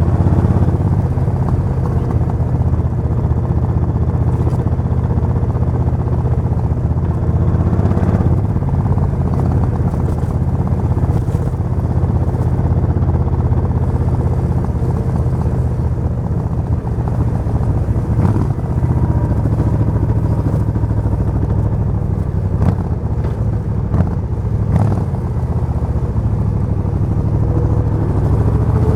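Suzuki VS1400 Intruder's V-twin engine running steadily at a fairly constant speed, with a few short clicks along the way.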